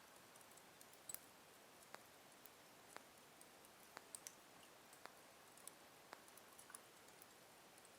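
Slow-burning wood fire in a fireplace crackling faintly: sparse, irregular sharp pops and ticks, roughly one a second, over a soft hiss.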